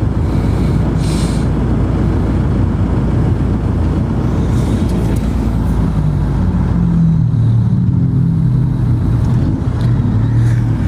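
Steady low rumble of a moving vehicle, with an engine hum coming through more clearly from about halfway in.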